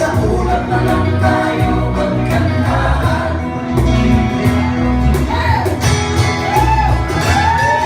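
Live band playing a Filipino folk-rock song on guitars, bass and keys, with singing; a melodic line slides up and down in the last few seconds.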